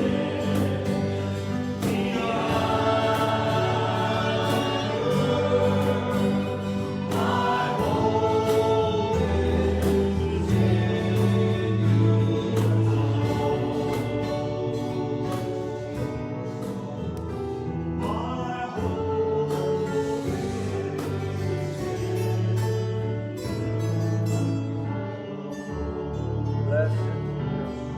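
A church congregation singing a worship hymn to instrumental accompaniment, with sustained chords and a steady bass line.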